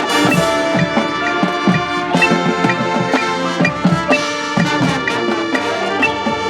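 Marching band playing its show: brass and mallet percussion together, with many held notes and quick, busy note attacks.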